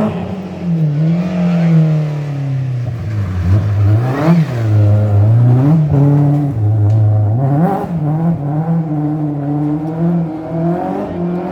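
Rally car engine under load. Its pitch sinks, jumps in two short throttle blips about four and six seconds in, then climbs at about eight seconds and holds steady to the end.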